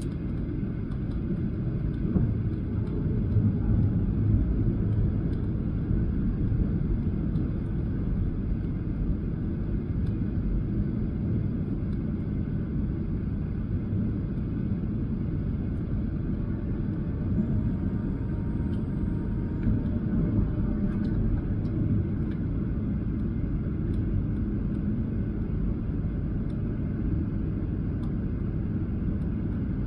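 Steady low rumble heard inside the cabin of a Boeing 737-800 airliner: engine and airflow noise, swelling a little now and then.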